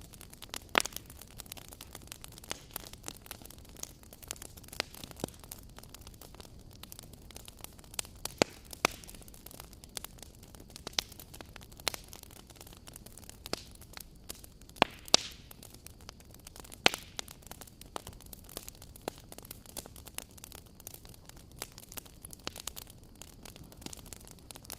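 Wood fire burning with irregular sharp crackles and pops over a low steady hiss.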